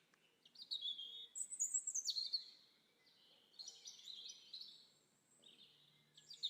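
Birds chirping faintly, short runs of high sliding whistled notes in two spells, about a second in and again past the middle.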